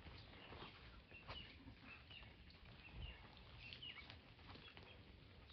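Faint chirping of small birds: many short, high chirps scattered throughout, with a few soft clicks.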